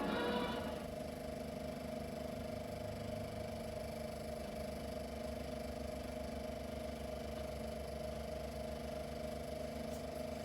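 Closing music ends within the first second. It is followed by a steady hum with a fine, fast, even mechanical pulse, from the Super 8 sound projector running on after the film's soundtrack has ended.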